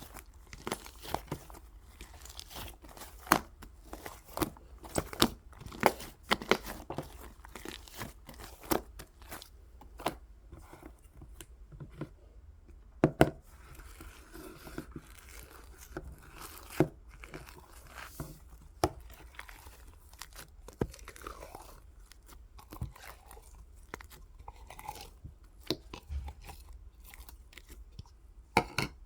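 Slime being worked by hand, squished and stretched so that it gives off irregular sharp clicks and pops, a few a second.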